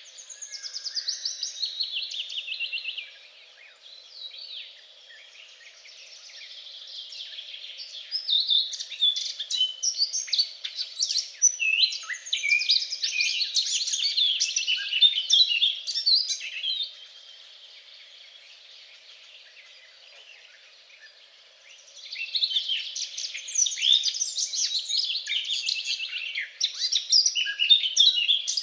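Songbirds singing in long phrases of rapid, high twittering notes, with quieter lulls of a few seconds between phrases.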